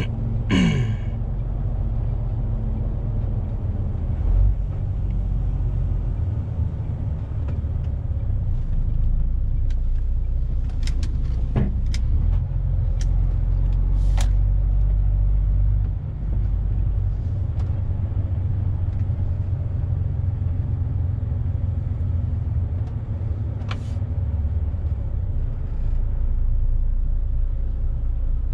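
Lorry's diesel engine and road noise heard inside the cab, a steady low rumble while driving, with a few scattered sharp clicks.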